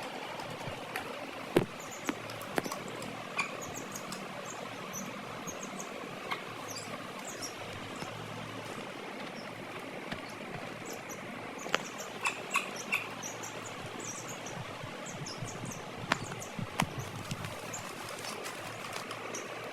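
Young chicks peeping in many short, high chirps over a steady background hiss, with a few sharp clicks scattered through.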